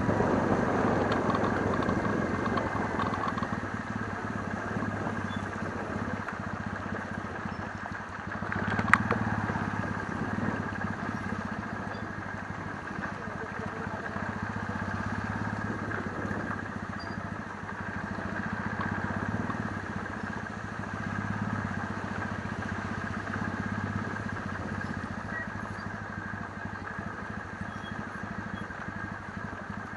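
Kawasaki W650's parallel-twin engine running at low revs, its hum swelling and easing several times, with a single sharp click about nine seconds in.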